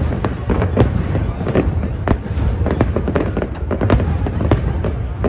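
Fireworks going off: a rapid, irregular string of sharp bangs, several a second, over a continuous low rumble.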